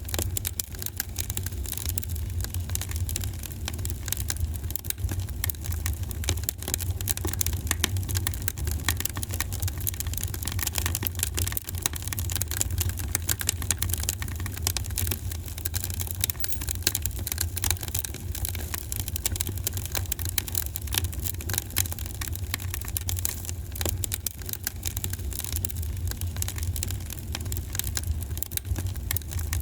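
Wood fire burning in a fireplace: constant small crackles and pops over a steady low rumble.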